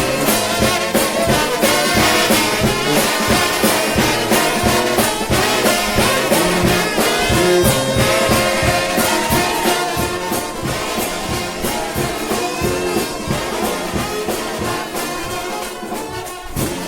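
Trombone shout band playing an up-tempo shout, massed trombones over a steady, driving drum beat; the music gets gradually quieter over the last several seconds as the number winds down.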